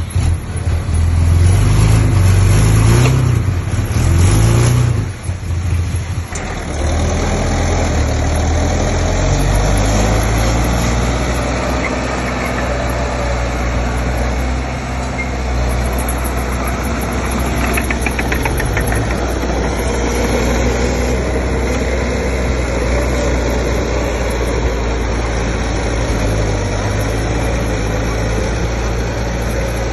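Heavy diesel engine of earthmoving machinery working. It revs harder and changes pitch for the first several seconds, then settles into a steady run.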